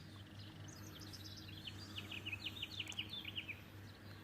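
A songbird singing one quick run of short, down-slurred notes that step lower over about three seconds, faint, over a steady low hum.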